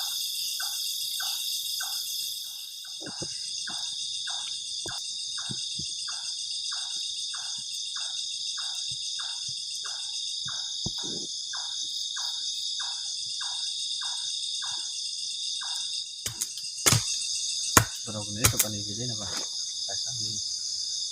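Night chorus of crickets, a steady high trilling, with another creature's short call repeated about twice a second for most of the first fifteen seconds. A few sharp knocks and clicks come near the end.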